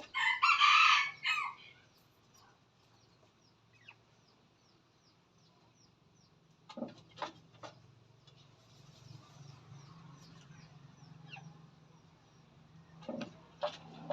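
A red junglefowl (wild chicken) rooster crowing once, a short harsh crow right at the start. A few sharp clicks or taps follow later, in two small clusters.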